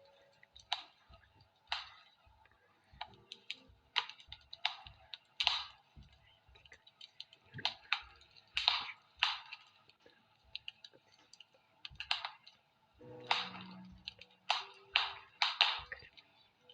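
Wood fire in a fireplace crackling: irregular sharp pops and snaps over a faint hiss.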